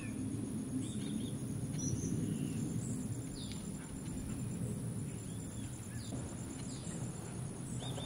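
Scattered short bird chirps and calls, one every second or so, over a steady low rumble and a faint continuous high whine.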